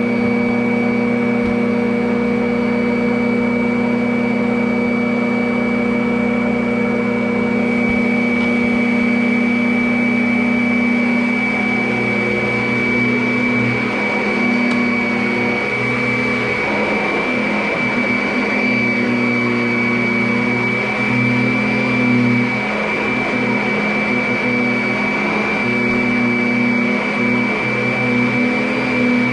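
Vacuum cleaner running continuously, a steady motor hum under a high whine; from about halfway on, the lower hum wavers and dips as the load changes.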